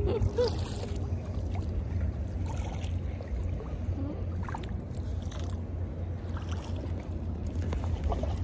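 Kayak on open water: water sloshing and paddle splashes over a steady low rumble.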